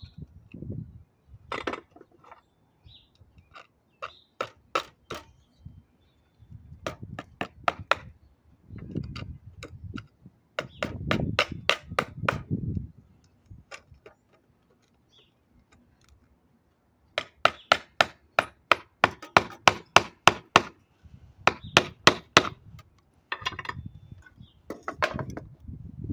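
Hammer tapping staples into a bird feeder: bursts of quick, sharp strikes, about three or four a second, with short pauses between the bursts.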